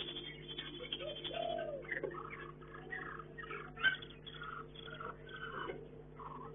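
Caged birds chirping: short, scattered calls, one after another, over a steady low hum.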